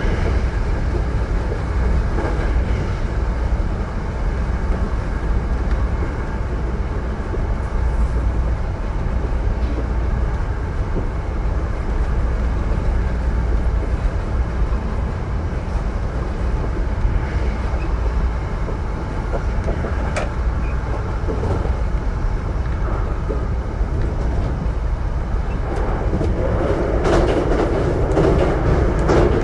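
Hankyu 9000-series electric train running, heard from inside the car: a steady rumble of wheels on rail with occasional sharp clicks. It gets louder and rougher a few seconds before the end.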